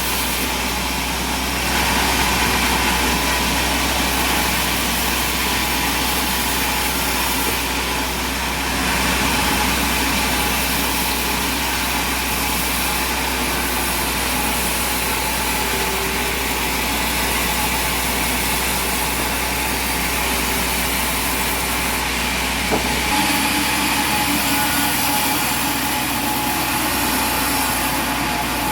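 An engine running steadily, with a sharp click late on, after which the low hum changes.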